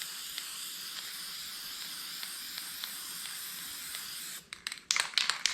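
Aerosol spray paint can spraying in a long, steady hiss that stops about four seconds in, followed by several sharp clicks near the end.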